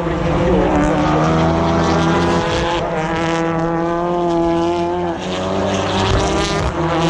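British Touring Car Championship race cars' turbocharged two-litre four-cylinder engines running hard past the spectator, several cars' notes overlapping, with pitch dropping about five seconds in and climbing again near the end as they change gear through the corner.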